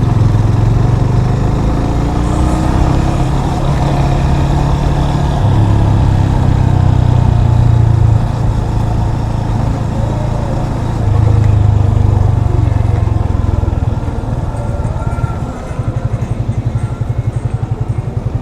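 Yamaha FZ25's single-cylinder engine running under way, pulling harder in several surges and easing off between them, then dropping to a quieter, evenly pulsing idle near the end.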